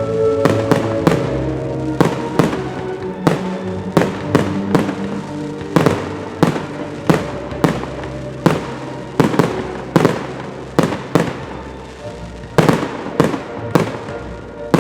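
Fireworks display: aerial shells bursting in rapid, irregular succession, two to three bangs a second, with music playing along underneath.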